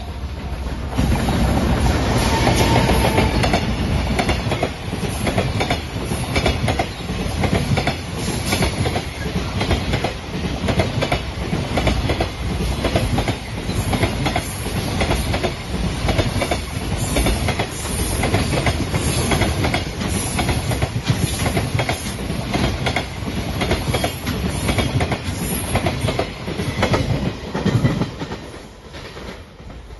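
JR freight train passing close at speed: an electric locomotive, then a long string of container wagons with rapid clickety-clack of wheels over the rail joints. A short falling tone sounds as the locomotive goes by, and the noise dies away near the end as the last wagon passes.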